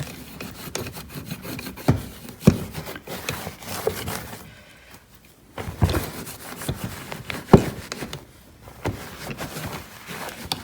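A cleaning cloth rubbing and wiping over car surfaces, with many irregular light clicks and knocks from handling and a few sharper knocks.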